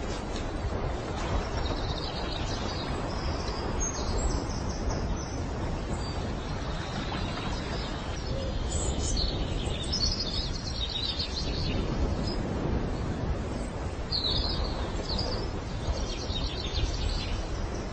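Birds chirping in short high phrases several times over a steady low outdoor rumble.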